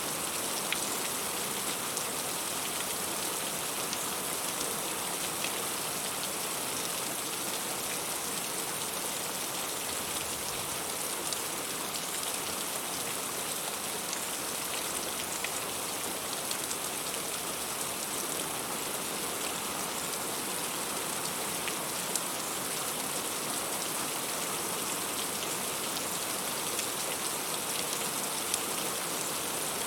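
Heavy rain falling steadily, with many small drop impacts pattering through a dense even hiss.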